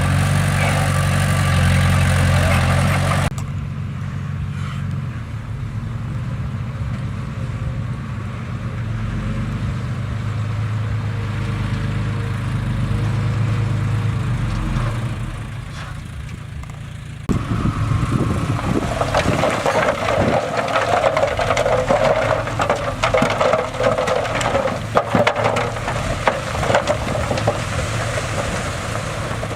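Bulldozer diesel engine running, with the sound changing abruptly about three seconds in and again past the middle; in the later part, many short knocks and clatter from the machine's work.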